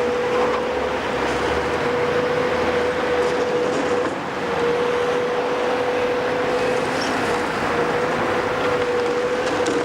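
Heavy demolition machinery running, with a steady high whine held throughout, briefly dipping twice, over continuous rumbling and grinding.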